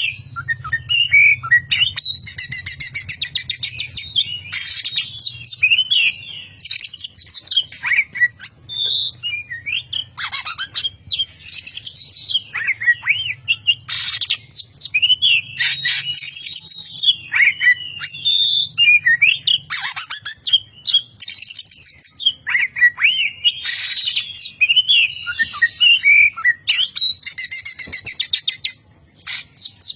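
Oriental magpie-robin singing a loud, varied song. Sweeping whistled notes alternate with fast, buzzy chattering rattles that mimic a lovebird's chatter.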